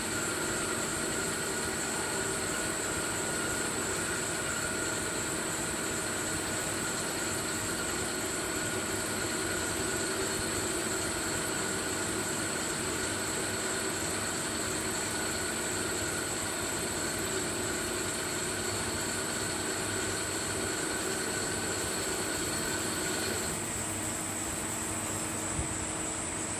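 CNC machine running an automatic cycle: a steady machine noise with several held whining tones over a hiss. About 23 seconds in, some of the whine stops and the sound drops a little, as the machine changes step.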